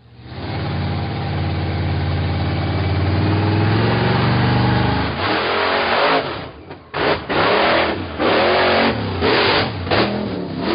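Monster truck engine running steadily for about five seconds, then revved hard several times in short bursts that rise and fall in pitch.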